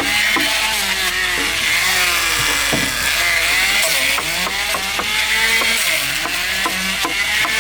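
Woodworking power tool cutting into wood, its motor pitch rising and falling under load, with many sharp clicks and rattles.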